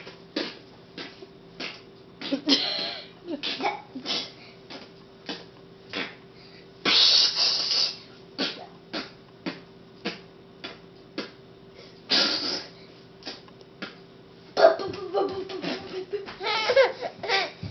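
A small child making mouth noises: a string of clicks and lip smacks about twice a second, broken by a few breathy blowing sounds, with giggly voice sounds near the end. A faint steady hum lies underneath.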